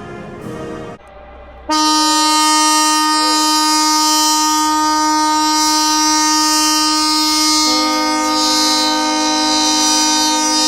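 Ship's horn sounding one long, steady blast, which a second, lower horn joins partway through so the two sound together. Orchestral music is heard briefly at the very start.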